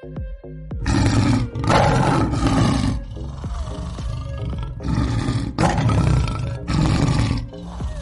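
Lion roaring in two long bouts, the first about a second in and the second past the middle, over background music with a steady beat.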